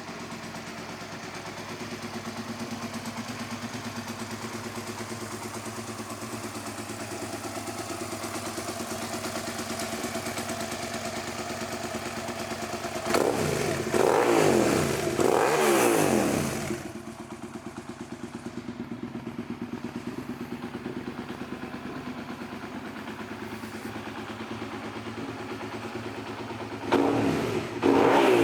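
2006 Suzuki SV650's V-twin engine idling with an even, pulsing beat, blipped twice in quick succession about halfway through, the pitch rising and falling with each blip, then back to idle before another rev near the end.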